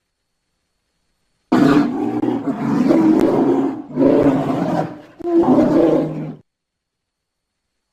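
Doedicurus creature sound effect: four low-pitched, growling animal calls in quick succession, beginning about a second and a half in.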